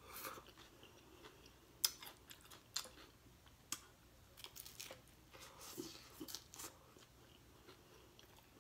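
Faint chewing of a mouthful of taco: scattered sharp mouth clicks and smacks with a few soft crunches.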